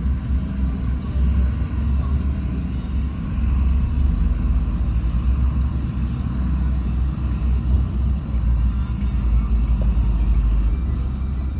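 Heavy diesel construction machinery running with a steady deep rumble.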